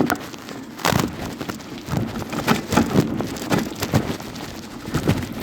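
Irregular knocks and crackling noise on the microphone, typical of wind buffeting and handling while riding, with sharp thumps at the start and about a second in.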